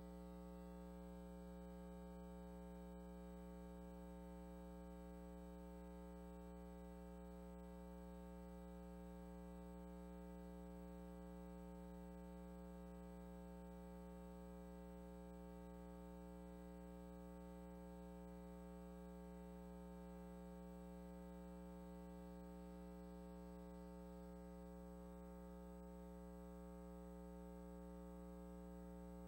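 Steady electrical hum and buzz at low level, holding many fixed tones without change.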